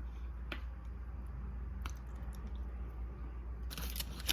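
Eating sounds from a seafood boil of crab and shrimp: a few soft clicks, then a short crunchy crackle near the end, over a steady low hum.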